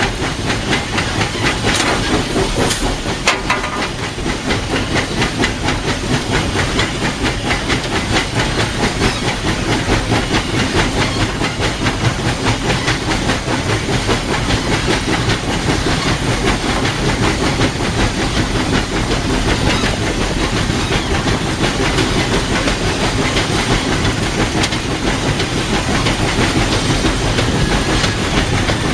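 Cab of narrow-gauge steam locomotive No. 12, a 4-6-0, under way: a steady hiss of steam over the rumble and clatter of the wheels on the rails.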